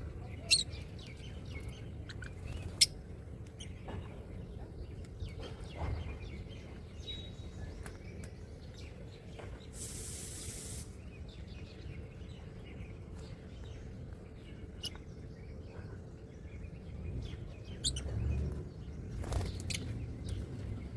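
Pet birds giving short, sharp chirps now and then, a few of them loud, over a steady low background hum. A brief hiss about ten seconds in.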